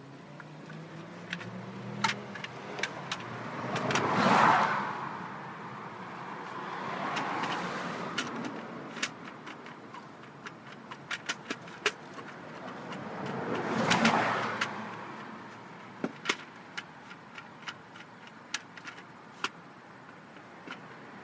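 Vehicles passing on a nearby road, three swelling and fading by in turn, with many light plastic and metal clicks and taps as a distributor cap is fitted and worked into place on the distributor.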